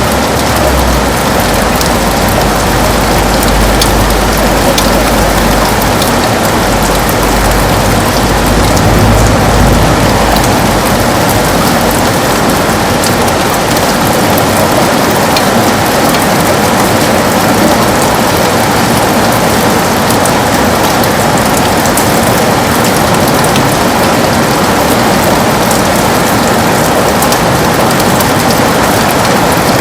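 Heavy rain hitting a window glass, a steady dense patter with scattered sharper drop ticks. A low rumble sits under it for roughly the first twelve seconds, then fades away.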